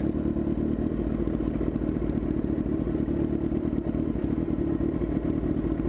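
Kawasaki ZX-10 sport bike's inline-four engine running steadily at constant revs, with no revving up or down.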